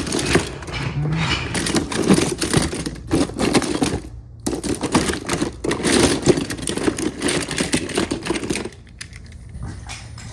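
Wooden BRIO toy train pieces clattering and rattling as they are handled, a dense run of clicks and knocks that stops abruptly near the end.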